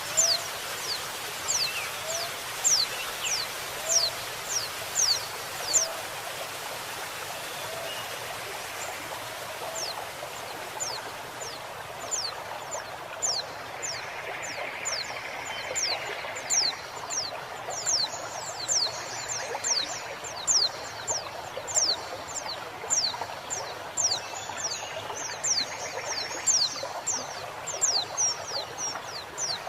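Female white-eye (pleci) calling in series of short, high, thin falling notes, about two a second, with a pause of a few seconds near the start, over a steady trickling stream. A lower chirp repeats about once a second during the first several seconds.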